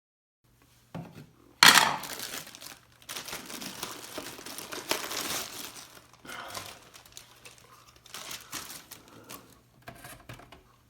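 Crinkling and rustling of something being handled, likely packaging, in irregular bursts with a loud sharp crackle about two seconds in.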